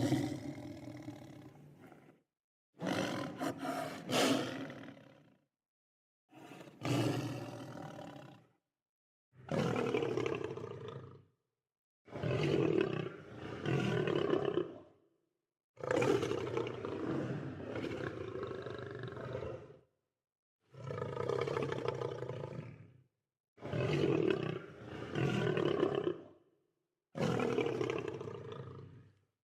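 Lion roaring in a series of about nine separate calls, each one to four seconds long, with dead silence between them.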